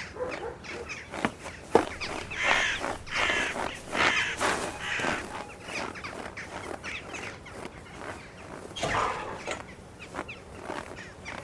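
Crows cawing: a run of harsh caws about two to five seconds in, and another near nine seconds, with a couple of sharp knocks in the first two seconds.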